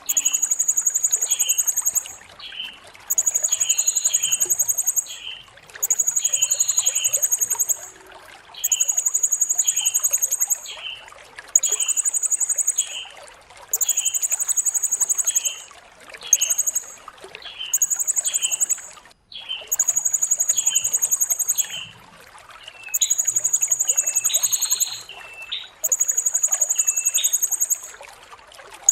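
Blue-crowned hanging parrot (serindit) singing: a very high, buzzy trill lasting one to two seconds, repeated about eleven times with short gaps, and short sharp chirps in between.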